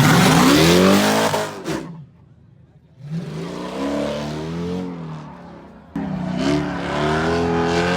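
A car engine revving hard in three spells, its pitch climbing and falling each time, with a brief lull about two seconds in.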